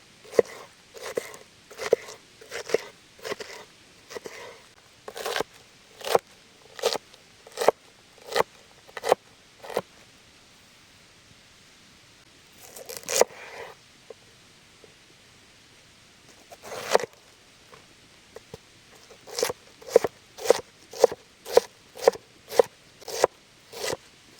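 Knife cutting food on a board in steady, crisp strokes, about one every 0.7 seconds. The strokes come in runs, with a pause in the middle and a quicker run near the end.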